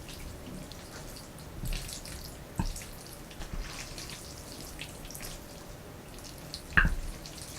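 Close-miked wet, sticky clicks and smacks of sauced jjapaghetti noodles, scattered and irregular, with a sharper tick a few seconds in and a louder knock near the end.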